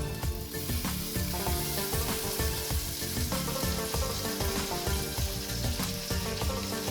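Raw chicken pieces sizzling as they fry in hot oil with the onion-tomato masala, a steady hiss that comes in right at the start. Background music with a steady beat plays underneath.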